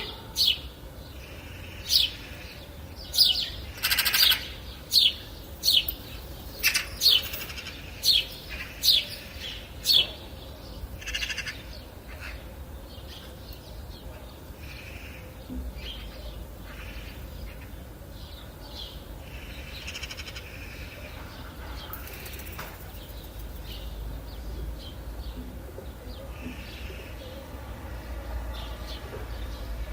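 Wild birds calling: a run of about ten sharp, high, falling call notes roughly a second apart, then softer scattered chirps from about ten seconds in, over a steady low rumble.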